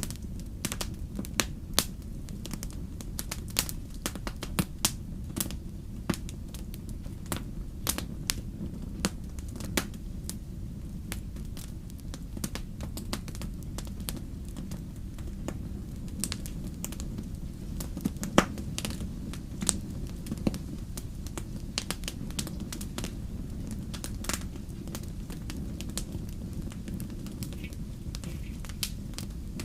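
Wood fire in a fireplace crackling, with irregular sharp pops and snaps over a steady low rumble; one louder pop a little past halfway.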